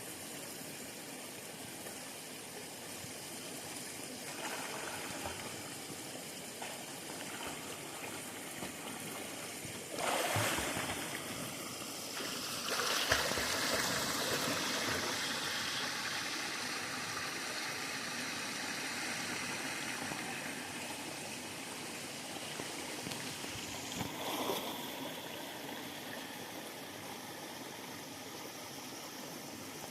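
River water running and gurgling over rocks, with a louder surge of splashing water about ten seconds in and a shorter swell later on.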